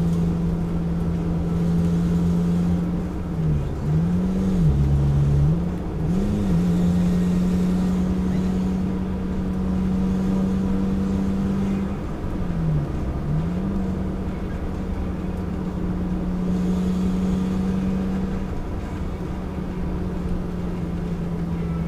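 Engine of an old scrap-rally car droning steadily, heard from inside the cabin while driving, over road noise. Its pitch dips briefly and comes back up three times: about three seconds in, again around five to six seconds, and again around thirteen seconds.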